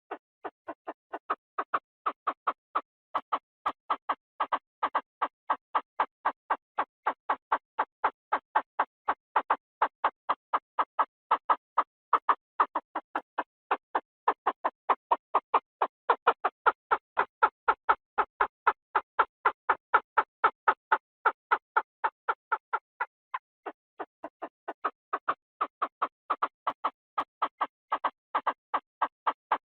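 Chinese francolin calls, played as a decoy lure: short, harsh notes repeated rapidly, about three to four a second, with a brief dip in loudness a little past two-thirds of the way through.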